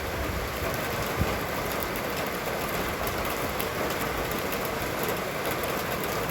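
Steady rushing noise of rain falling in the wind, with fine scattered ticks of drops.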